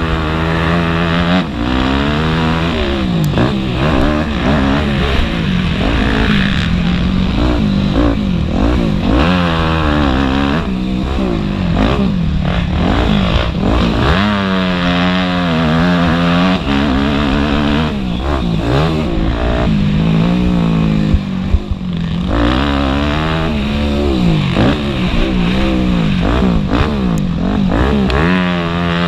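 Motocross motorcycle engine revving hard, its pitch repeatedly climbing and dropping as the rider works the throttle and shifts around the track. There is a brief sharp knock a little past the middle.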